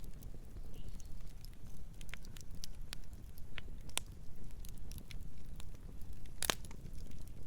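Campfire burning: a steady low rumble of flames with irregular sharp crackles and pops of burning wood, the loudest pop about six and a half seconds in.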